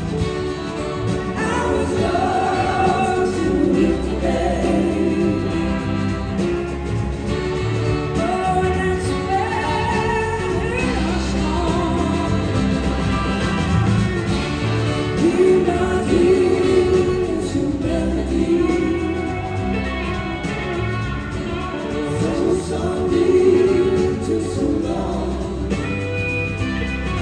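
Live band performance of a soul-rock song with singing, over a continuous full band. Gospel-style harmony vocals are in the mix.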